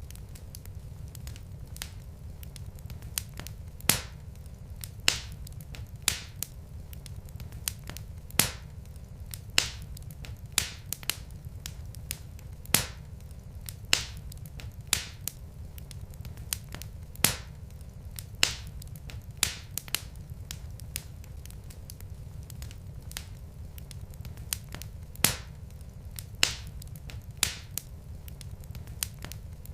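Wood fire burning in a fireplace, logs crackling with irregular sharp pops, a dozen or more louder ones scattered through, over a steady low rumble of the flames.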